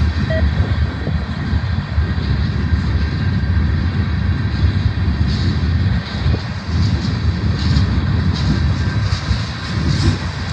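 Freight train rolling past: a steady low rumble, with short high clicks and hisses coming in over the second half.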